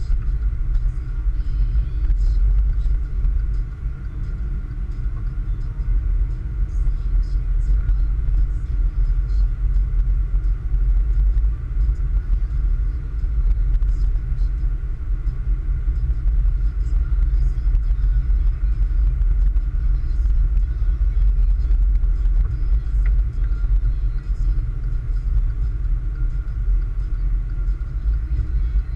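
A car driving on snow-covered roads: a steady low rumble of engine and tyres.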